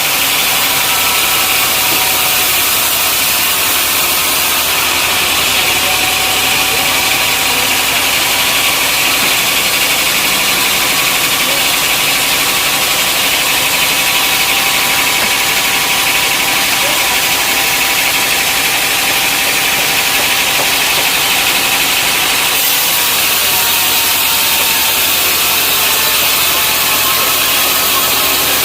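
Sawmill machinery running steadily: a continuous engine-like drone with a hissing edge and no pauses or strikes.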